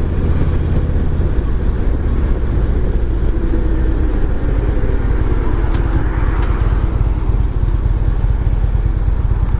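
Motorcycle engine running steadily with a low, even rumble, with some added noise that swells slightly about six seconds in.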